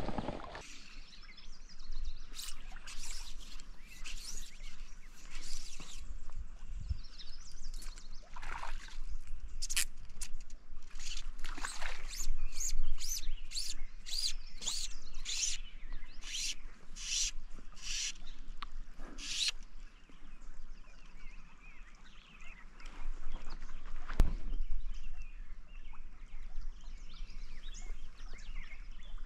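Outdoor ambience of songbirds calling over a faint steady hiss, with a run of about a dozen quick repeated high notes midway through. A single sharp click comes late on.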